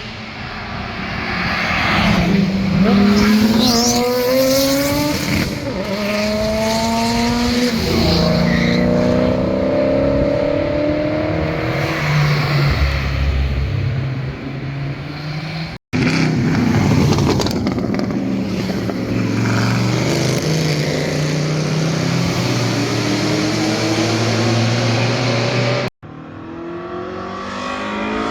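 Performance car engines revving hard as the cars accelerate past, the pitch climbing and then dropping back at each upshift. The sound breaks off abruptly twice, about halfway through and a couple of seconds before the end, as one car's pass gives way to the next.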